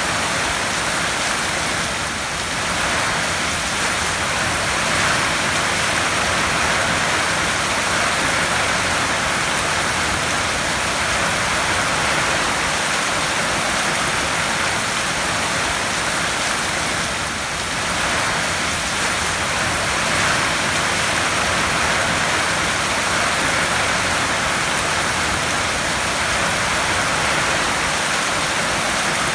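Heavy rain drumming on a tin roof, a dense, steady hiss that swells and eases slightly.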